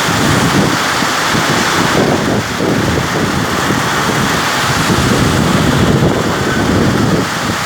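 Heavy rain pouring down, with wind buffeting the microphone in uneven low rumbles.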